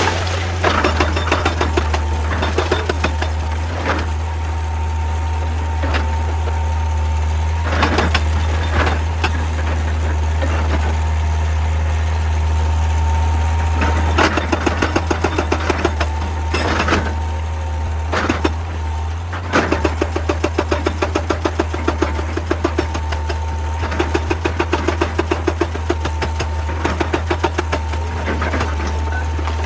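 Heavy diesel excavator engine running steadily, with stretches of fast, even knocking and a few sharp clunks of metal and rock as the machine works stone.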